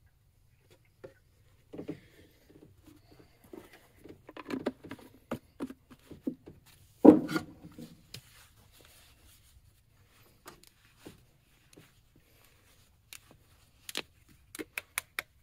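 Scattered plastic clicks and knocks from handling quart bottles of motor oil and a makeshift funnel while oil is added to the engine. One louder knock comes about seven seconds in, and a few sharp clicks near the end.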